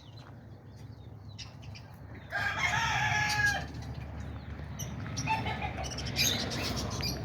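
A rooster crowing once, about two seconds in, for just over a second, followed by fainter calls. Small birds chirp faintly throughout.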